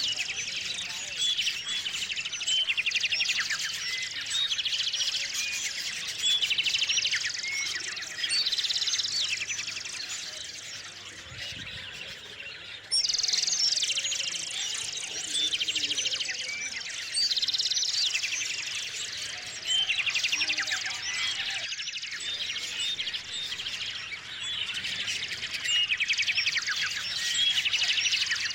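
A chorus of small songbirds chirping and trilling, with calls overlapping almost without a break. The chorus thins for a couple of seconds before the middle, then comes back suddenly.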